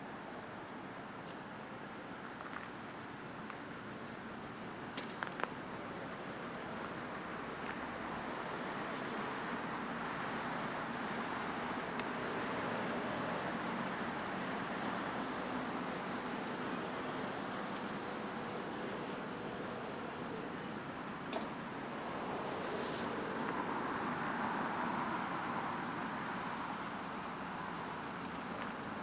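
Steady high-pitched insect trilling made of fast, even pulses, over a broad rushing background hiss. A few sharp clicks come about five seconds in and again past twenty seconds.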